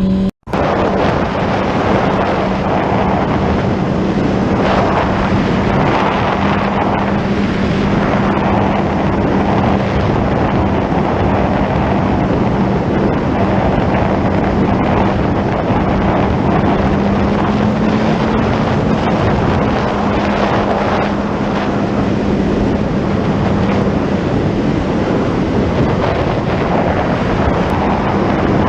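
Motorcycle riding at steady speed, heavy wind rush on the helmet-camera microphone over the engine's steady drone. The engine's pitch rises a little about two-thirds of the way through, then settles back.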